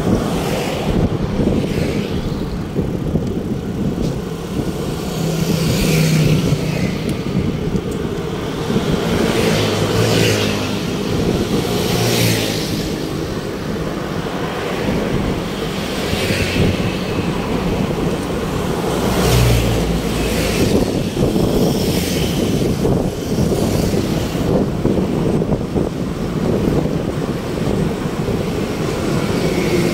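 Road traffic: steady rumble of vehicles, with a passing swish every two to three seconds as cars go by.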